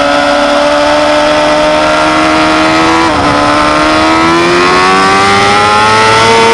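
Honda CBR954RR's inline-four engine heard from onboard, pulling hard under acceleration with its pitch climbing steadily. It drops once about three seconds in at an upshift, then climbs again, over steady wind rush.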